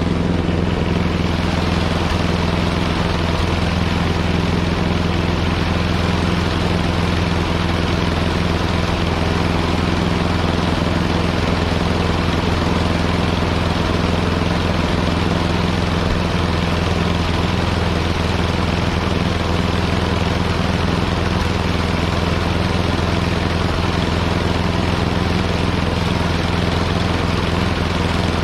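Snowblower engine running at a steady speed, with no revving or change in pitch.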